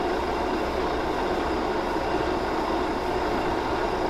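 Metal lathe running steadily, spinning a large steel shaft held in a steady rest, with an even motor and spindle hum.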